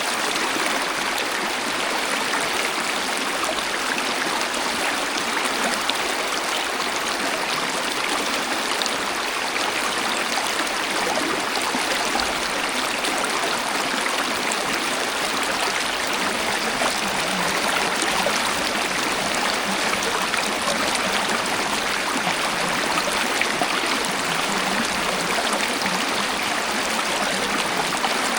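Waterfall: water falling and rushing steadily, a constant even hiss with little low rumble.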